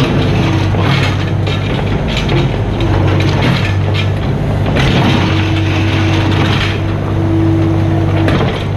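Mini excavator's diesel engine running steadily while the machine works, with scattered clanks and scrapes of metal. A steady whine joins in about five seconds in and stops shortly before the end.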